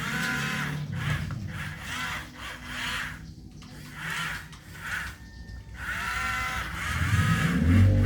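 Small electric motors of radio-controlled construction models whining in short bursts, the pitch rising and falling as the controls are worked, with brief pauses between moves.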